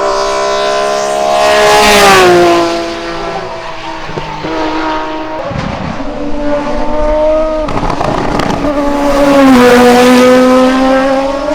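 Race car engines at high revs passing close by, twice: each gets loud, about two seconds in and again near ten seconds, and its pitch falls as it goes past.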